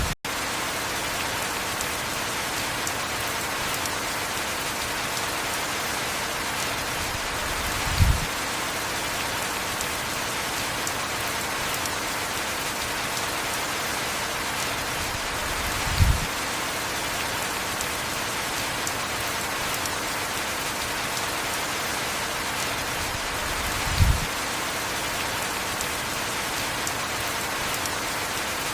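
Heavy rain falling steadily. A short, low thump breaks through three times, evenly spaced about eight seconds apart.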